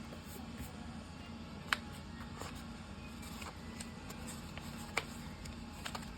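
A few short, sharp clicks, two louder ones about two and five seconds in and a couple of small ones near the end, over a steady low hum.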